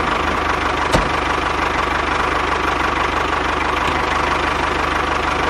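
Small motor of a DIY mini model tractor running steadily with a fast, even chatter and a steady whine. There is one click about a second in.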